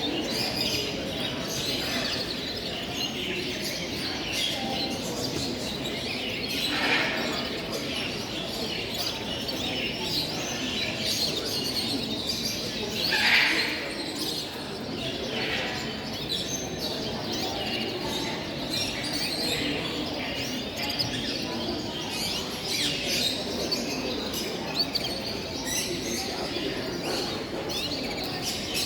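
Chorus of many caged show birds, parrots and canaries among them, chirping and calling. Two louder calls stand out, about 7 and 13 seconds in.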